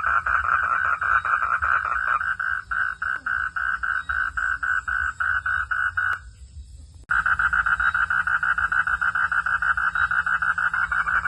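Frogs calling in a rapid, steady pulsing chorus, about five pulses a second. It breaks off for about a second a little past halfway, then starts again abruptly.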